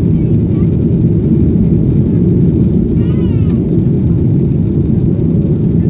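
Steady, loud cabin noise of a Boeing 737-900ER: the CFM56-7B jet engines and the airflow, heard from inside the passenger cabin.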